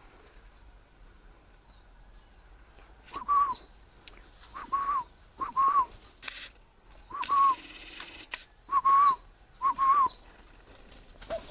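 Birds calling: about half a dozen short whistled notes, each slightly wavering, some with a thin high falling chirp, starting a few seconds in. A faint steady high tone runs underneath, and there is a brief rustle about a second long midway.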